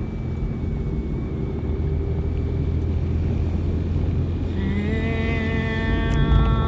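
Deep, steady droning tone. About four and a half seconds in, a higher sustained tone rich in overtones joins it.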